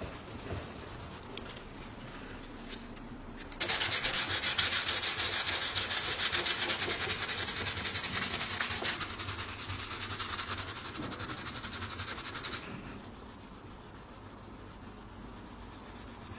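A loud rasping, rubbing noise, like something being sanded or scraped, starting about three and a half seconds in and stopping abruptly about nine seconds later.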